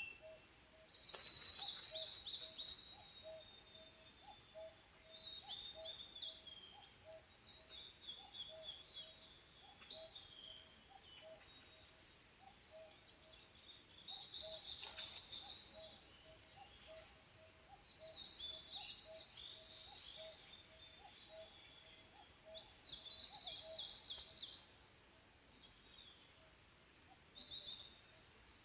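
Faint wild birdsong: phrases of high twittering every second or two, over a long run of short, evenly repeated lower notes that stops near the end.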